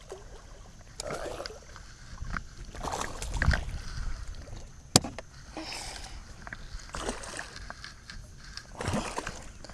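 Water sloshing and splashing against a small boat, with scattered handling knocks and one sharp click about halfway through.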